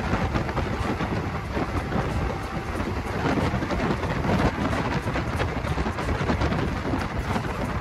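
Steady rush and rumble of a passenger train running at speed, heard from on board, with wind buffeting the microphone.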